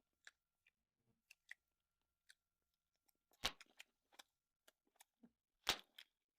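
Close-miked eating sounds: scattered faint mouth clicks and small crunches, with two louder crunching bites about three and a half and five and a half seconds in.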